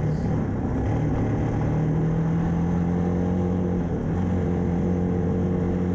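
1994 Yamaha Timberwolf 4x4 ATV's single-cylinder four-stroke engine running under load at fairly steady revs, wavering and briefly faltering about four seconds in. The engine is bogging out and losing power, held in a low gear to keep the revs up.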